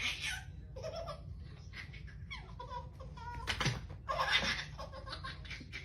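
People laughing in bursts, with a single thump about three and a half seconds in.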